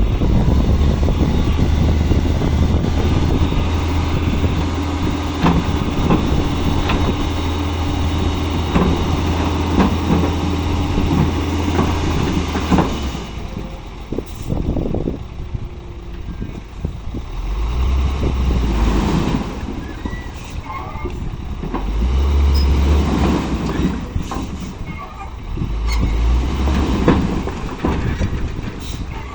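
Heavy diesel machinery loading a dump truck with fill soil: a steady low engine drone with scattered knocks stops about 13 seconds in, followed by several separate low engine surges.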